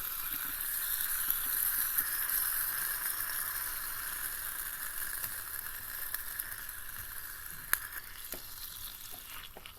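Frozen pork slices for ginger pork sizzling steadily in a cast-iron skillet, fading a little toward the end, with a sharp click about eight seconds in.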